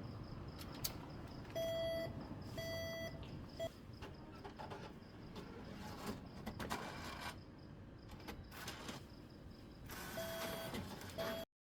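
Short electronic beeps from a machine over a faint steady background hum: two about a second apart near two seconds in, a brief one after them, and two more near the end.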